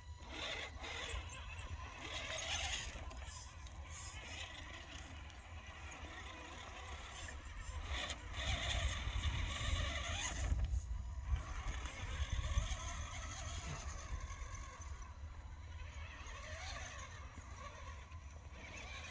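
Electric motors and geared drivetrains of RC scale crawler trucks whining as they drive over rough ground, rising and falling with the throttle, over a steady low rumble of wind on the microphone.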